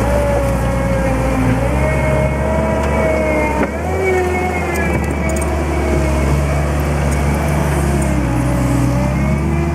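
JCB 205T tracked skid steer loader working, its diesel engine running steadily under a whine that wavers up and down in pitch as the machine moves and its hydraulics are worked.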